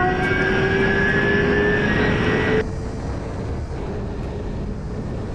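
Yamaha R6 sport bike's inline-four engine pulling at highway speed, its note slowly rising, over heavy wind and road rush. About two and a half seconds in the engine note drops away suddenly, leaving steadier, quieter wind and road noise with a faint engine hum.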